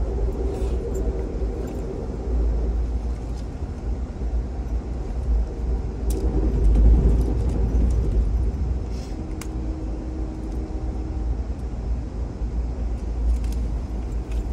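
Steady low rumble of an Amtrak California Zephyr passenger car rolling on the rails, heard from inside the car, with a few sharp clicks and faint steady tones that come and go.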